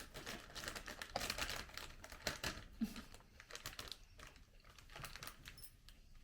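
Chocolate packaging (wrappers and box tray) crinkling and rustling with many small irregular clicks as pieces are handled. The crinkling thins out in the second half, and there is a brief low sound about three seconds in.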